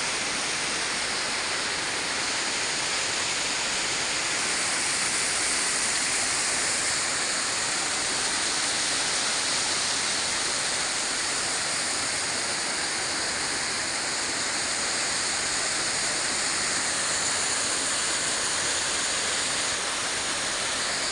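Steady, even rushing hiss of falling water, unchanging in level throughout.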